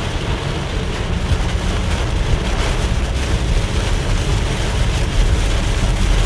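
Steady rush of severe thunderstorm wind around a moving car, with a heavy low rumble of wind buffeting the microphone.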